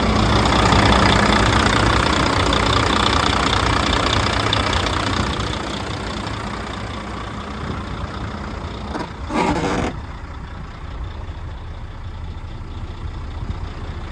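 Volvo diesel engine of a 2007 Volvo truck running, louder for the first five seconds or so, then settling to a lower idle. A short, loud burst of sound cuts in briefly about nine seconds in.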